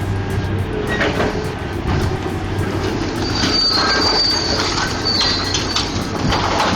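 Hydraulic excavator shear crunching and tearing through an aircraft's aluminium tail section, with metal screeching and squealing, loudest about halfway through.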